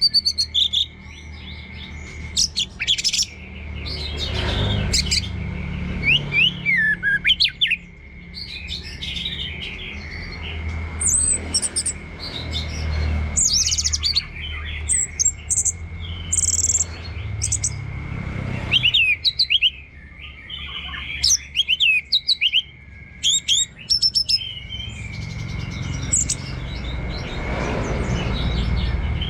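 Orange-headed thrush singing a rapid, varied 'teler' song of sharp chirps and whistled, sliding phrases, delivered in clusters with brief pauses.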